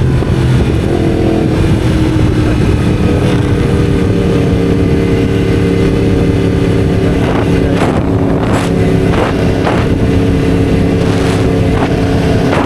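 Motorcycle engine running at a steady speed, its pitch easing down slightly in the first couple of seconds. A few short sharp clicks come through in the middle.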